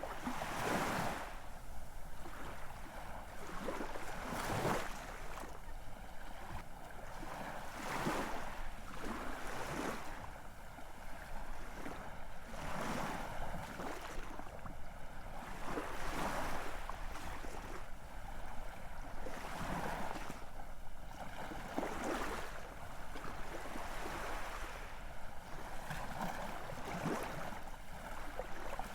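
Ocean surf: waves washing in one after another, each a rushing hiss that swells and fades every three to four seconds.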